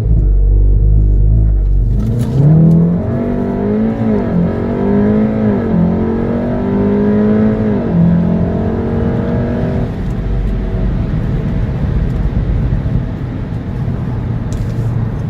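2017 Volkswagen Golf R (Mk7) turbocharged 2.0-litre four-cylinder engine making a launch-control start. It holds steady revs for about two seconds, then launches, its note climbing and dropping back with three quick upshifts. After about ten seconds the engine note fades into steady road and wind noise.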